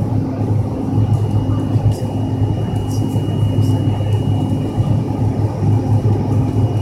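Jet airliner heard from inside the passenger cabin: a steady engine rumble with a thin high whine on top, and a regular beat repeating a little under once a second.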